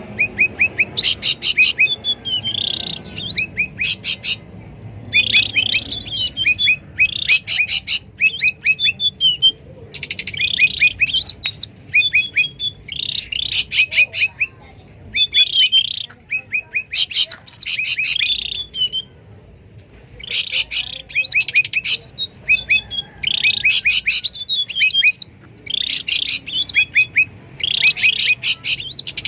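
Cucak ranting birds calling noisily: quick runs of sharp chirps and short whistled notes, repeated phrase after phrase with only brief pauses.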